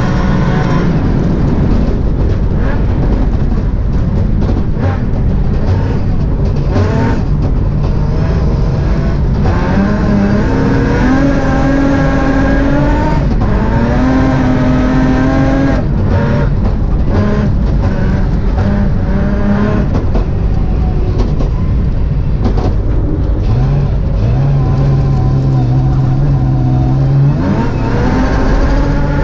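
BMW M3 rally car's engine heard from inside the cockpit, at full throttle on a snowy stage, revving up and down through the gears with repeated lifts and shifts. It changes down toward the end.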